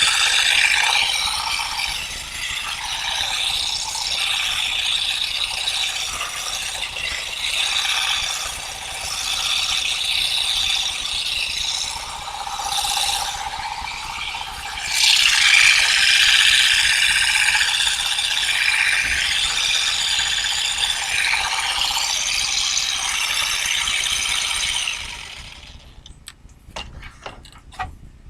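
Continuous mechanical clattering and ratcheting. It breaks off briefly about 13 seconds in, resumes, and stops about 25 seconds in, followed by a few faint clicks.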